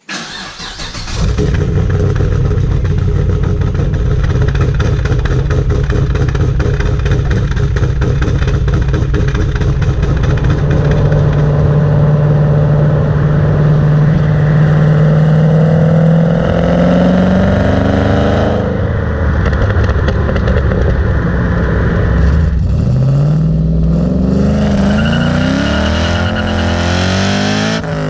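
LS V8 engine in a BMW E36 starting up and settling into a steady idle, then revved twice, its pitch climbing and falling back each time.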